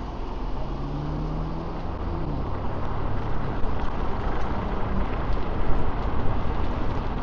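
Wind and road noise on a shirt-clipped wireless microphone while riding an electric scooter in traffic, a steady rushing hiss heaviest in the low end. In the first couple of seconds a low hum from a nearby vehicle rises slightly in pitch.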